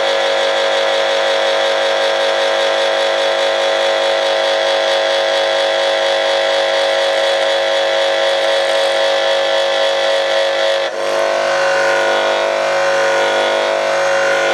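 Electric grindstone of a drill-sharpening jig running at speed, a steady hum with a high whine. About eleven seconds in the sound changes briefly as the drill point is lightly touched against the stone.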